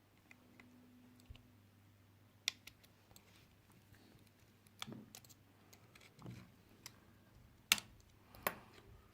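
Scattered small clicks and taps of hand tools against a smartphone being taken apart, irregular, with the sharpest two near the end, over a faint steady hum.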